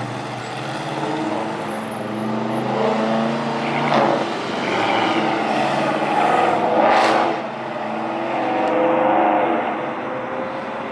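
Car engines running and revving as cars pull away, with louder surges of acceleration about four and seven seconds in.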